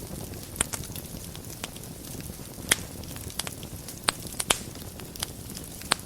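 Wood fire burning in a fireplace: a steady low rumble of flames with scattered sharp crackles and pops, the loudest about three seconds in and again toward the end.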